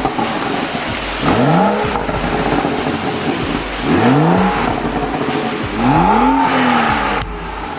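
BMW M235i's turbocharged 3.0-litre inline-six revved three times while stationary, each rev rising and falling back, on the stock exhaust with its catalytic converter still fitted.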